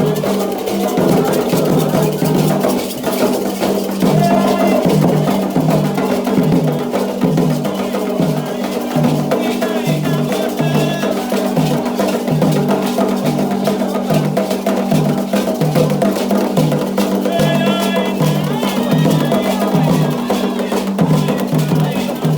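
Candomblé ritual music: atabaque hand drums beating a steady repeating pattern with a metal bell (agogô) ringing over it. Voices join in singing at times.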